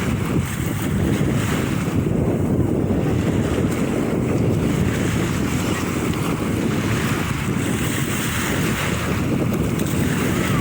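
Wind buffeting the microphone over the steady wash of sea surf on a beach.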